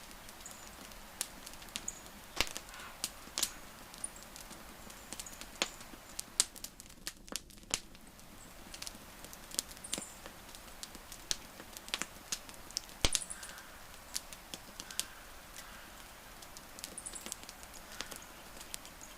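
Wood campfire crackling: irregular snaps and pops over a faint hiss, with a few sharper cracks, the loudest about 13 seconds in.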